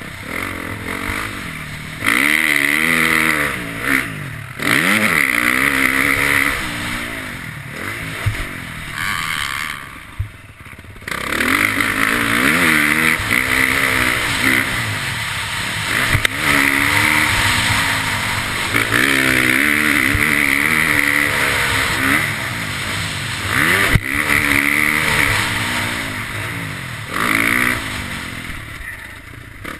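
KTM motocross bike's engine, heard close on the bike, revving hard and falling back again and again as the rider works the throttle through the gears. It goes nearly off the throttle briefly a few times, longest about ten seconds in and again near the end.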